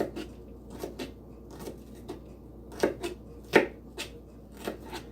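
Knife chopping an onion: about a dozen slow, uneven strokes, the loudest about three and a half seconds in.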